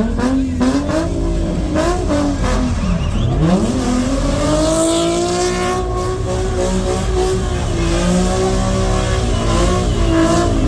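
Car engine revving hard: a few quick blips, then a climb to high revs held for about six seconds before falling away near the end.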